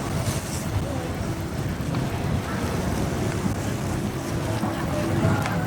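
Motorcycle riding noise: wind rushing over the microphone with the engine and road noise underneath as a steady low rumble.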